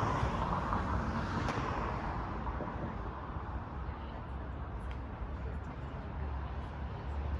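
Road traffic noise: a passing vehicle fades away over the first couple of seconds, leaving a steady low rumble of street traffic.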